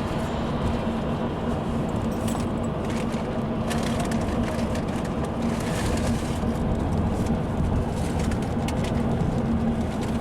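Car driving on the road, heard from inside the cabin: steady road and engine noise with a low hum, and light rattles and clicks scattered through it.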